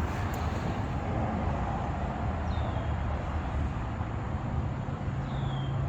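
Steady low vehicle rumble, with two short falling chirps, like birdsong, about two and a half seconds in and again near the end.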